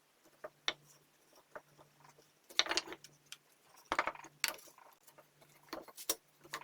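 Irregular light clicks and taps, a dozen or so, the loudest clustered around the middle, over a faint low hum that comes and goes.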